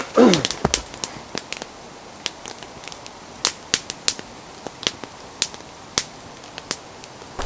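Wood campfire crackling, with irregular sharp pops about once or twice a second over a low steady background.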